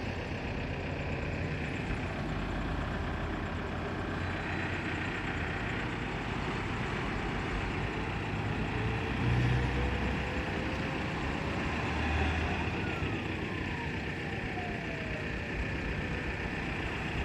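Excavator's diesel engine running steadily. A faint whine slowly rises about a third of the way in, and another falls away later.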